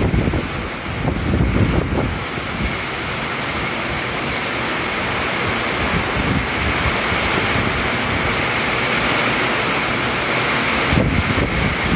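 Heavy rain pouring down in a steady hiss during a strong thunderstorm. Gusts of wind buffet the microphone in the first two seconds and again from about eleven seconds in.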